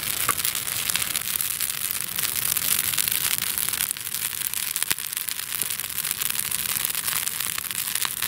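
A large campfire of dry deadfall wood burning, crackling with a dense run of sharp pops and snaps over a steady hiss. One louder snap comes about five seconds in.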